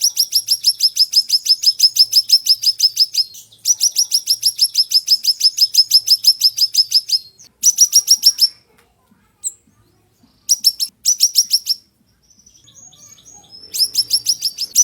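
A siri-siri songbird singing in long, fast, high trills of rapidly repeated down-slurred notes, about a dozen notes a second. There are two long phrases of several seconds each, then shorter bursts around eight seconds in, around eleven seconds in, and again near the end, with brief pauses between them.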